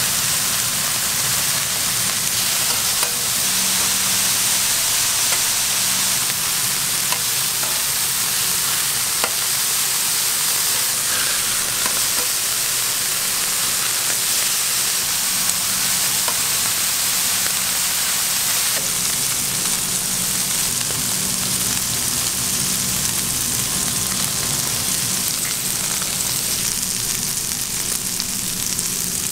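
Beef burger patties sizzling steadily in their fat on a flat-top griddle, with a few brief clicks as a spatula turns them.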